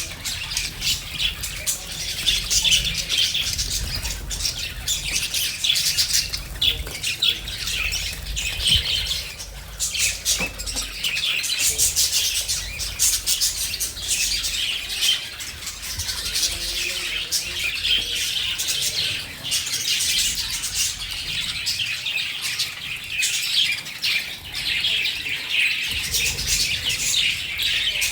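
Budgerigars chirping and chattering continuously, many short calls overlapping.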